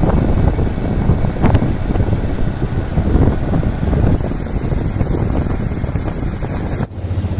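Strong wind buffeting the microphone over the low rumble of a small boat's motor at sea. Near the end the sound cuts to a steadier, rhythmic engine hum.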